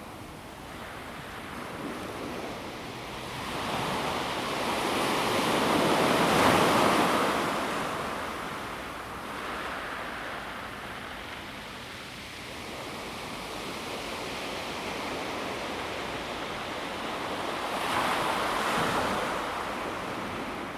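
Calm sea waves washing onto a pebble beach and drawing back. The surf swells and fades, with the biggest wave about six seconds in and another near the end.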